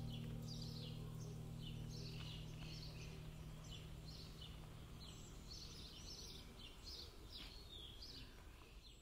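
Small birds chirping repeatedly in short calls, over the last of a low held music chord that fades out in the first few seconds.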